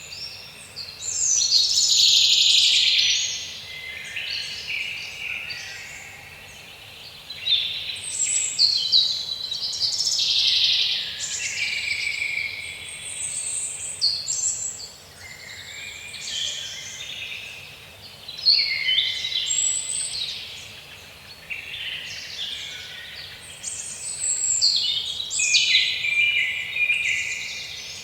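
Songbirds singing and chirping, a dense chorus of overlapping trills and high calls that swells and fades in repeated bursts.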